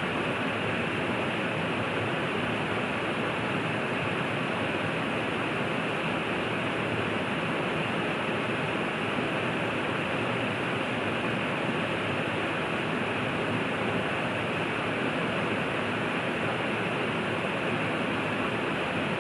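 River water rushing steadily, an even unbroken rush with no other sound standing out.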